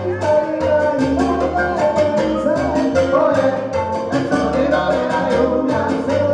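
A live Latin band playing a salsa-style number, with a repeating bass line, steady percussion strokes and melody instruments.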